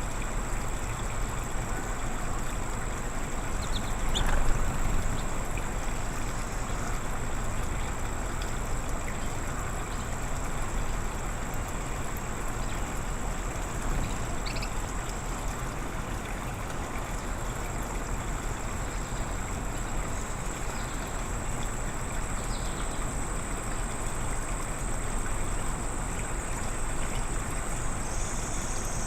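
Steady outdoor background hiss and low rumble with a constant high-pitched whine, and a few short faint bird chirps scattered through. There is a brief louder swell about four seconds in.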